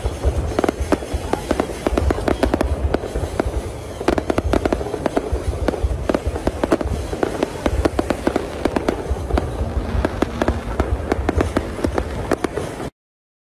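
Aerial fireworks display: a rapid, continuous barrage of shell bursts and crackling bangs with a deep rumble underneath, cutting off suddenly near the end.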